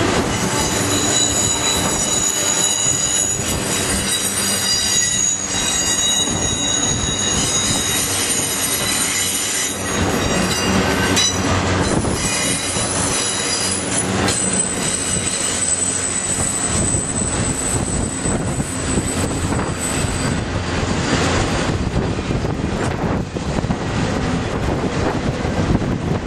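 Train rolling past with its wheels squealing on the rails: several steady high-pitched squeals through the first half, then a single high squeal that fades out about twenty seconds in, all over a continuous rumble of wheels and cars.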